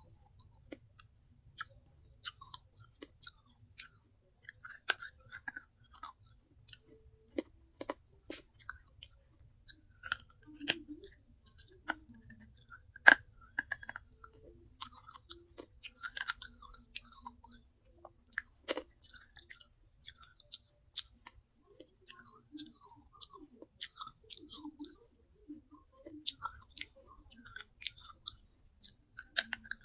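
Pieces of baked clay pot (handi) being bitten and chewed, with irregular sharp crunches and crackles; one crunch about halfway through is much louder than the rest.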